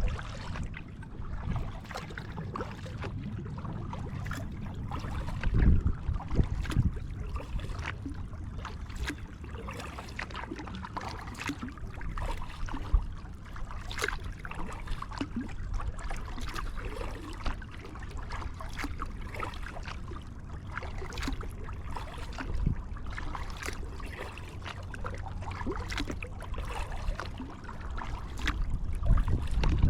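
Kayak paddling: the paddle blades dip and splash, with water trickling and dripping in many small irregular splashes. Wind buffets the microphone in low gusts, strongest about six seconds in and near the end.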